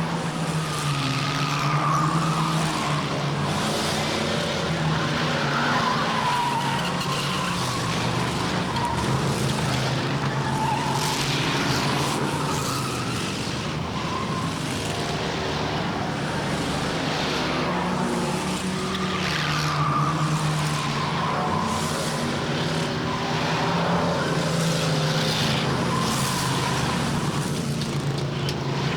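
Stock cars running at speed on a short track, engines rising and falling as they pass every few seconds, with tires squealing in the turns.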